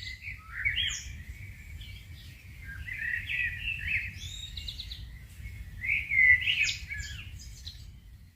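A songbird singing a varied song of short chirps and whistling glides in several phrases, loudest about six seconds in, over a steady low rumble.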